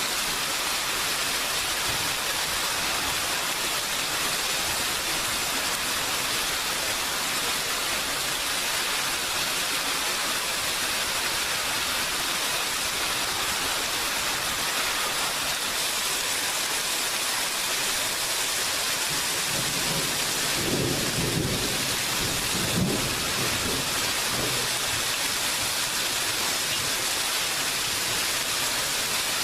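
Steady rain falling, an even hiss. About two-thirds of the way through, a low rumble of thunder swells for a few seconds, loudest near its end, then fades back into the rain.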